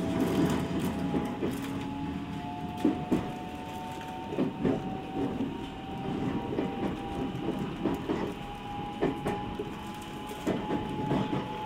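Cabin of a Shinkaisoku (Special Rapid) electric train under way: the motor whine rises slowly in pitch as the train gathers speed, over a steady rumble with irregular clacks from the wheels on the rail joints.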